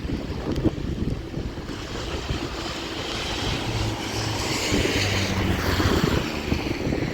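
Strong wind buffeting the microphone in gusts, with a hiss of wind and rain that swells about two-thirds of the way through.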